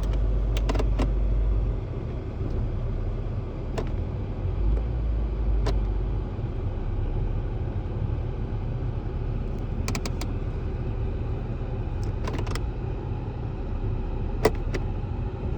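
Honda Fit idling, heard from inside the cabin as a steady low rumble, with a handful of sharp, irregular clicks from switches and controls being worked.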